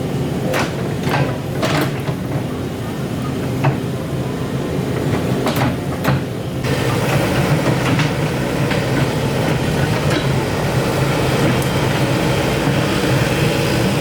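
Excavator's diesel engine running steadily, with sharp metallic clanks in the first half; about six and a half seconds in the sound grows louder and fuller.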